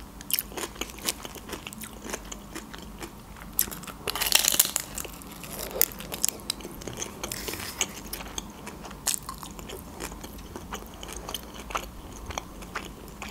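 Close-miked biting and chewing of a homemade taco wrapped in thin lavash, with many small mouth clicks and a loud crunching bite about four seconds in.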